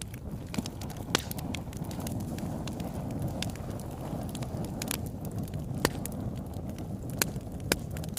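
Wood fire burning in a fireplace: a steady low rush of flames with scattered sharp crackles and pops, the loudest about a second in, near six seconds and near the end.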